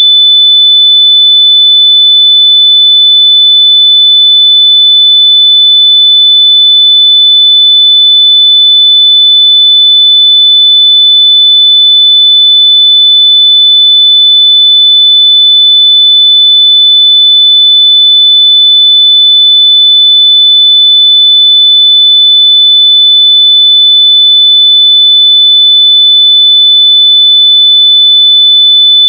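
Loud, continuous high-pitched electronic beep: a single pure tone held unbroken at one steady pitch.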